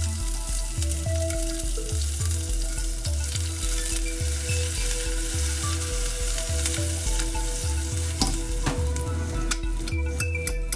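Diced onion and cumin seeds sizzling as they fry in a stainless steel pot, with a few sharp clinks of a spoon against the pot near the end.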